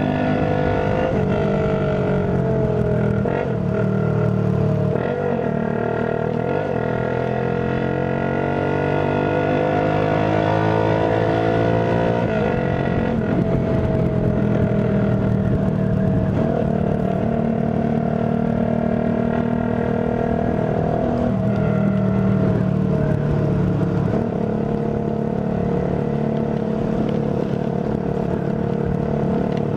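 Tuned Shineray Phoenix 50cc motorcycle engine running while riding. Its pitch climbs steadily for several seconds as it accelerates, drops abruptly about twelve seconds in, then holds fairly steady.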